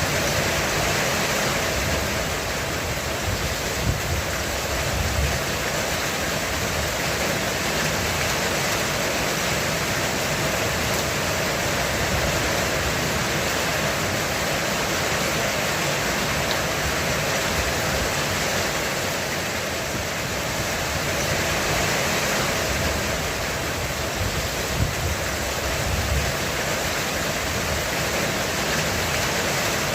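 Heavy rain falling steadily on a roof, a dense even hiss. Low thunder rumbles swell briefly about four seconds in and again near the end.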